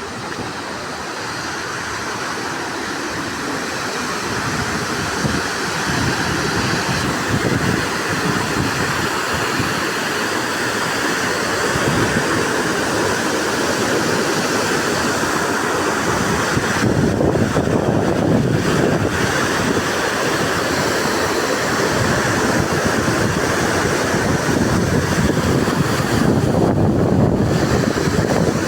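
Floodwater of the swollen Almanzora river rushing past in a steady, loud wash of water noise that grows gradually louder over the first half. The river is overflowing after intense rain.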